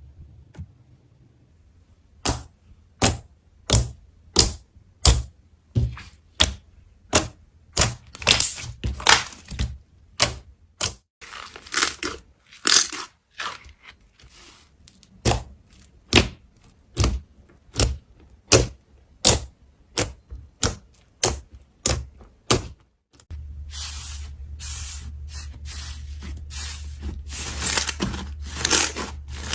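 Slime being pressed and worked, giving off sharp popping clicks about once every two-thirds of a second. Near the end a steady low hum comes in, and denser crackling replaces the separate pops.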